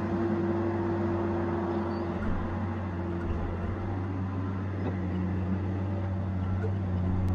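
Tigercat 870C feller buncher's diesel engine running steadily with a low, even hum. A higher steady tone over it drops away about two seconds in.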